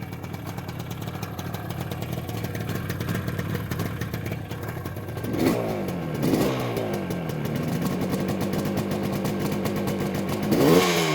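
1973 Yamaha RD350's two-stroke parallel twin running just after a cold start, idling with three quick throttle blips where the revs jump up and fall back, about halfway through, a second later and again near the end. It sounds very good.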